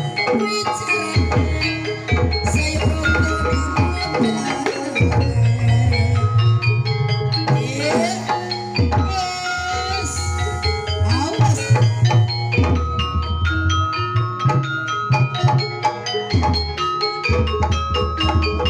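Gamelan music for a jaranan/barongan show: metal mallet instruments ringing out repeated notes over hand-drum strokes, with a few sliding melodic notes.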